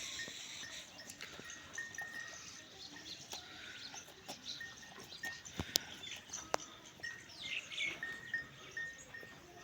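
Small birds chirping in short, repeated high notes, with scattered sharp clicks and one louder knock about halfway through.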